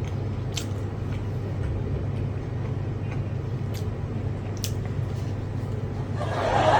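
A steady low hum with a few sharp clicks, the small sounds of eating; about six seconds in, a louder noisy rustle swells up.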